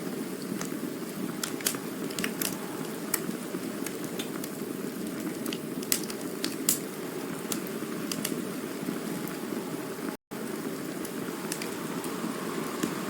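Campfire burning: a steady low rushing hiss with scattered sharp crackles and pops from the burning wood. The sound cuts out completely for a split second about ten seconds in.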